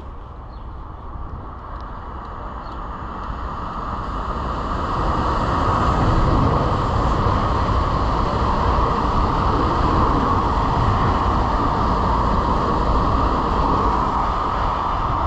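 TER multiple-unit train passing beneath at speed, its rumble and rail noise building over the first six seconds and then staying loud as the carriages run past.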